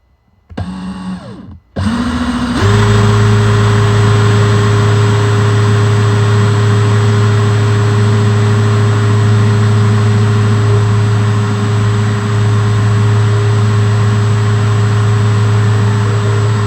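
Electric drill boring a hole into a tree branch: after a short burst of noise, the motor starts about two seconds in, comes up to full speed and then runs at a steady pitch.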